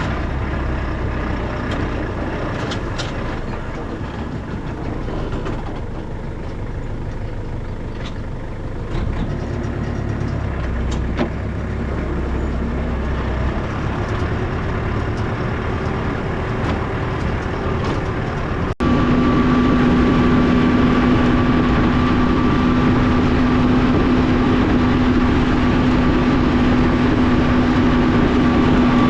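Farm tractor engines running: a lower, uneven engine rumble, then after an abrupt cut a louder, steady engine with a steady whine over it.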